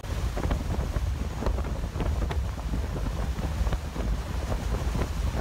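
Wind buffeting an outdoor microphone: a steady low rumble with scattered crackles and hiss.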